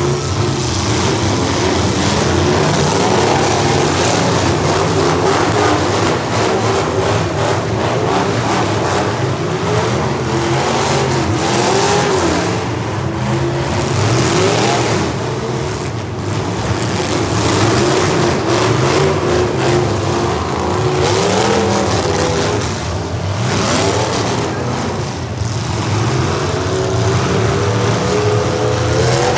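Demolition derby cars' engines running and revving together, several pitches rising and falling at once without let-up.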